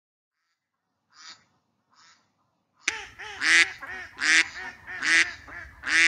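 A duck quacking: two faint quacks, then from about three seconds in a run of loud quacks a little under a second apart.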